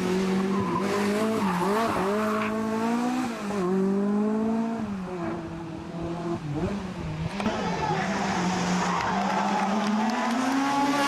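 Group B-era rally car engine driven hard, its pitch climbing and dropping again and again as the driver goes through the gears and lifts off. A rushing hiss of tyre noise builds in the second half.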